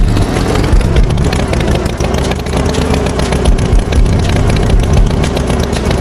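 A motor engine running steadily and loudly, a dense rattling noise with a steady hum.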